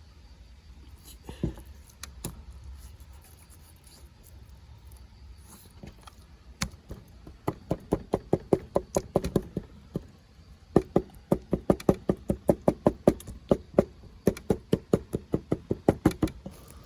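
Knife chopping on a cutting board: two runs of quick, even strokes at about four a second, with a short break between them.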